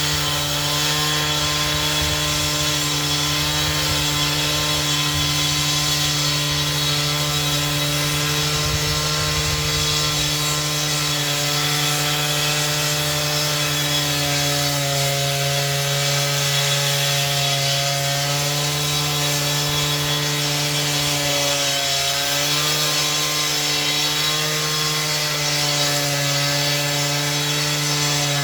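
Power saw running steadily through a long cut, its motor holding an even pitch that sags briefly about three-quarters of the way through, then recovers.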